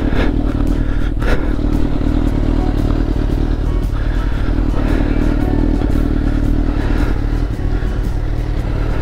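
2004 Suzuki GSX-R 600's inline-four engine idling steadily, with a mid-low hum that swells and fades twice.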